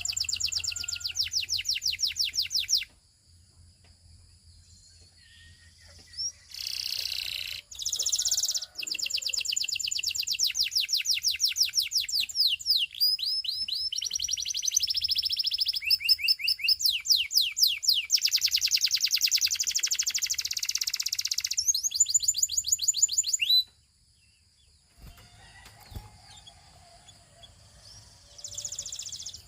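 Russian canary singing long, fast trilled rolls of rapidly repeated notes, in several phrases with a few seconds of quiet between some of them.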